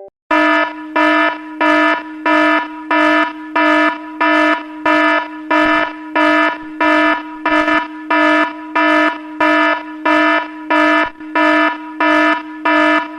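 iPhone alarm tone: a loud, buzzy electronic beep that pulses evenly on and off a little under twice a second.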